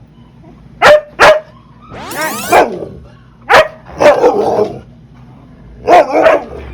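Huskies barking and 'talking' at each other: sharp single barks mixed with longer, wavering, howl-like cries, loud and in quick exchanges.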